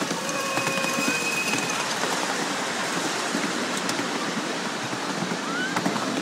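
Miniature steam train running, with a steady rushing noise throughout. A steady pitched tone sounds from about half a second in for roughly a second and a half, and a short rising squeak comes near the end.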